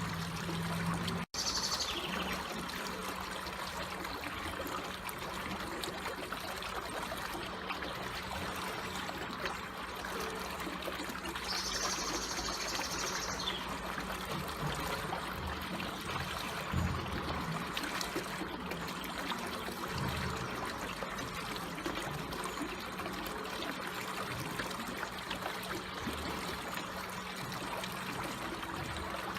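Water flowing slowly and steadily with an even trickling sound. The sound cuts out for an instant about a second in, and two short high chirps come through, near the start and about twelve seconds in.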